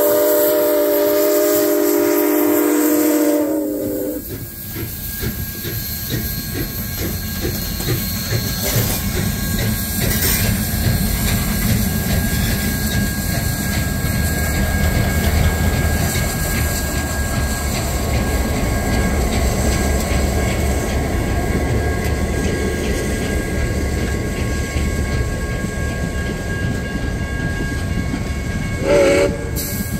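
Canadian Pacific 2816's steam chime whistle blowing one long multi-note blast for the first few seconds, then the train passing close by: the steam locomotive, the deep rumble of the following diesel units, and the passenger cars' wheels clicking over the rail joints. Two short whistle toots sound near the end.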